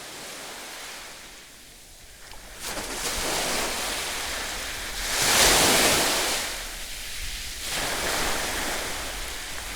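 Ocean surf: waves breaking and washing in, one loud surge about five seconds in that fades, then another rising near the end.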